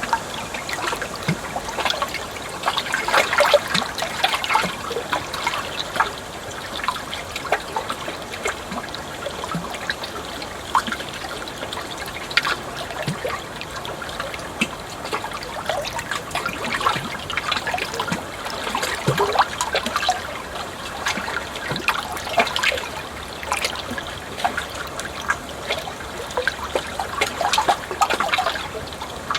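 Flowing water trickling steadily, full of small gurgles and splashes, swelling a little now and then.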